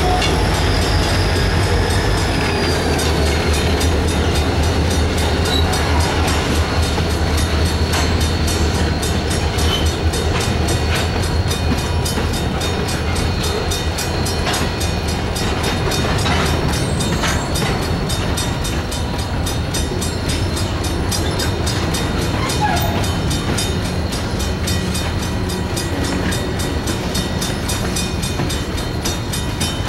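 Norfolk Southern EMD SD40-2 diesel locomotive running past, its engine hum fading about three seconds in. Covered hopper cars then roll through with steady wheel and rail noise. A dying mechanical crossing bell keeps striking at an even rate throughout.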